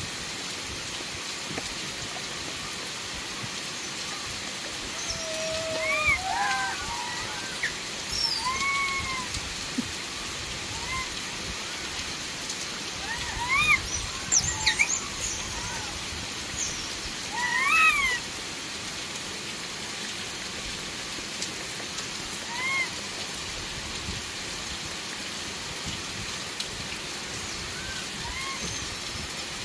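Heavy rain pouring steadily. Over it come short rising-and-falling animal calls every few seconds, the loudest clustered in the first two-thirds.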